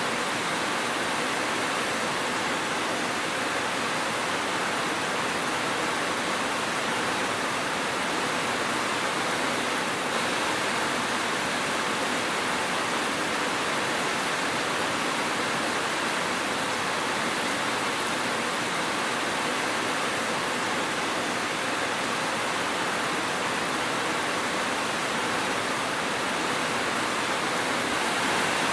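Steady rain falling, an even hiss that doesn't change and has no thunder or single drops standing out.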